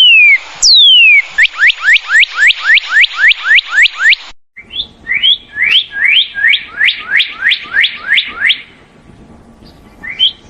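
Northern cardinal singing: two long down-slurred whistles, then a fast run of short down-slurred notes, about four a second. After a brief break comes a second phrase of short rising whistled notes at a similar pace, with a few more notes near the end.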